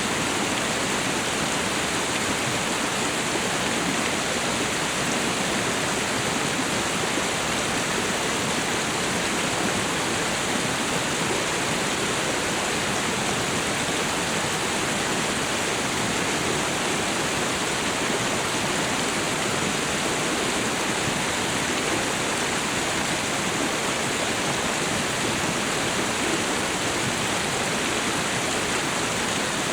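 Tropical waterfall and river: a steady, even rush of falling and flowing water.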